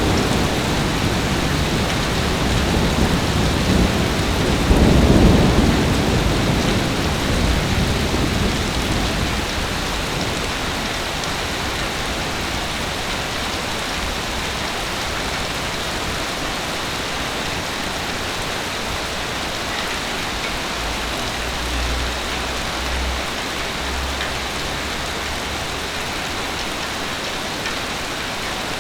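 Steady heavy rain, with a low rumble of thunder that swells about five seconds in and dies away by about ten seconds, and a fainter rumble later on.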